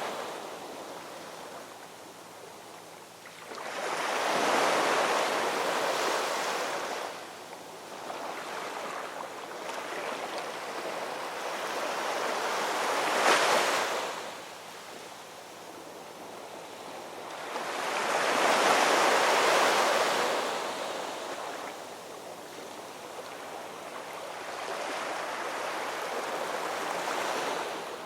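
Ocean waves washing onto a shore in slow, rising and falling surges, four in all, each several seconds long. The one about halfway through breaks more sharply than the rest.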